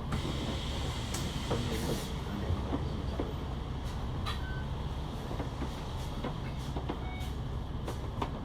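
Steady low rumble of a bus in motion, heard from inside the cabin, with scattered small clicks and rattles.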